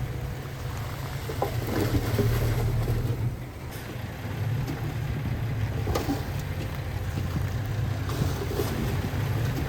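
Heavy diesel construction machinery running steadily with a low rumble, with a few short knocks or clanks.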